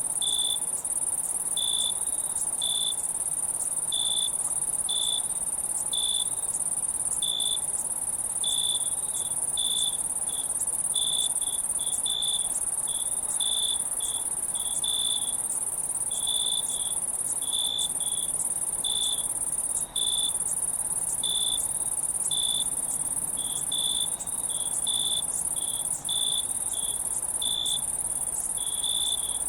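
A cricket chirping in short separate chirps, about one or two a second, over a steady high-pitched insect drone.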